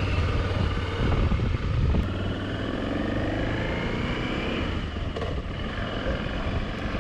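Motorcycle running on the road, a steady low engine drone under a haze of road and wind noise, the engine pitch rising and falling a little midway.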